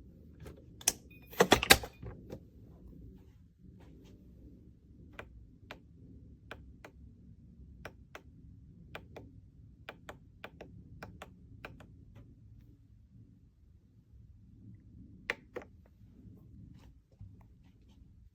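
A series of light clicks and knocks, irregularly spaced, with a louder cluster of knocks about a second and a half in and two sharper clicks near the end.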